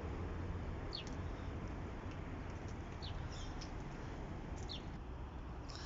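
A steady low hum and hiss of outdoor background noise, with a few brief, falling, high bird chirps scattered through it.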